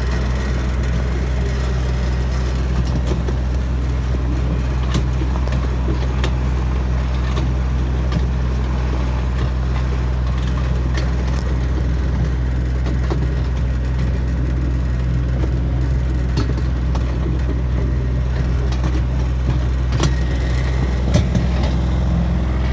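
Tractor engine running steadily under way, a low even drone, with a few brief knocks and rattles as it jolts over rocky ground.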